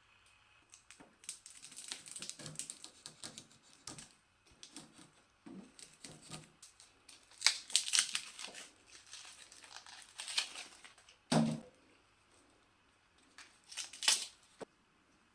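Handling noises: irregular runs of clicks and crinkling rustles, with a louder knock about eleven seconds in.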